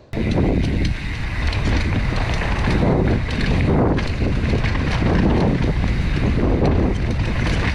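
Wind buffeting the microphone of a mountain bike as it descends a dirt trail, with tyre rumble and rattling over bumps. It comes in suddenly as the bike gets moving and stays loud and rough.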